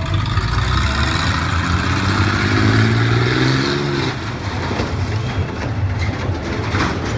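Monster truck engine revving hard: a deep rumble whose pitch climbs for a couple of seconds, then drops back off about four seconds in.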